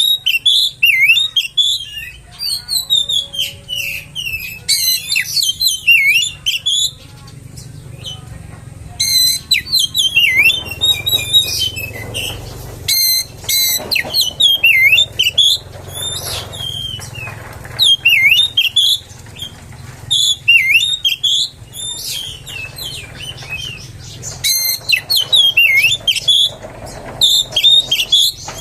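Oriental magpie-robin (kacer) singing loud, varied whistled phrases of rapid up-and-down sweeps, in bursts of a second or two with short pauses between. A faint low hum runs underneath.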